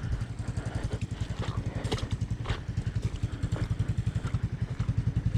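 Honda ATC 200M three-wheeler's single-cylinder four-stroke engine running at low revs with a steady chug. A couple of sharp clicks come about two seconds in.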